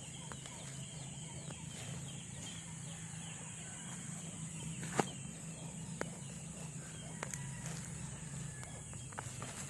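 Outdoor rural ambience: a steady high-pitched insect drone over a low hum, broken by a few sharp snaps or clicks, the loudest about five seconds in.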